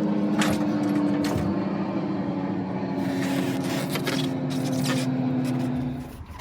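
Vehicle engine running with a steady hum, under scattered knocks and scrapes of tires and rims being shifted into a pickup bed. The hum cuts off just before the end.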